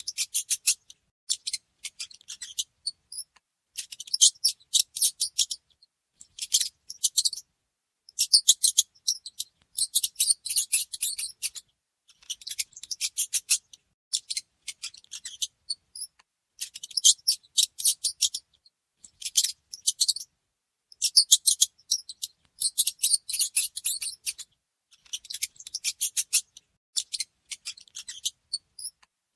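Mouse scratching sounds: rapid, dry, high clicky scratching in short bursts of about a second, with brief pauses between them.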